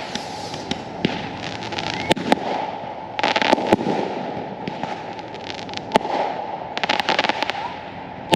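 Consumer fireworks going off: sharp bangs at uneven intervals, with dense bursts of crackling between them, about three seconds in and again around seven seconds.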